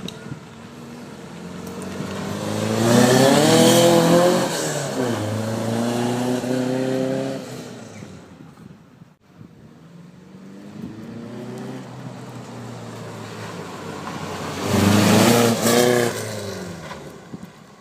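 Two motor vehicles passing by one after the other, each engine note growing louder, bending in pitch as it goes by and then fading. The first pass peaks about three to four seconds in, the second about fifteen seconds in.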